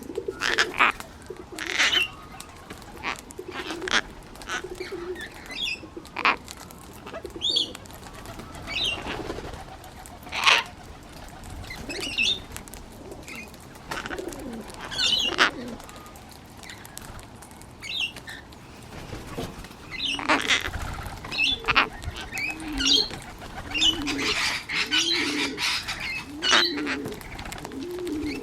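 Pigeon cooing over and over, in low wavering phrases that come thickest in the second half. Sharp clicks and high chirps from other birds are scattered throughout.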